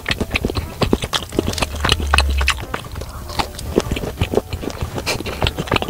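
Person chewing a bite of maple pecan cream cheese bagel with nuts in it, with many irregular mouth clicks and smacks.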